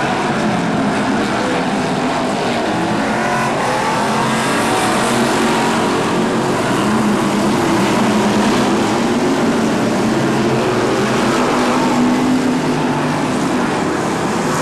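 BriscA F1 stock cars' V8 engines racing together, a continuous loud blend of several engine notes that rise and fall as the cars accelerate and lap.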